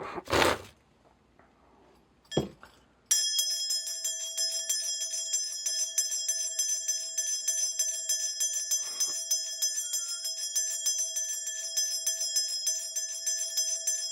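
A cluster of shaman's ritual bells (bangul) starts jingling suddenly about three seconds in and is shaken rapidly and continuously from then on, ringing with several steady bright tones. Before that there are a couple of brief rustles and one sharp knock.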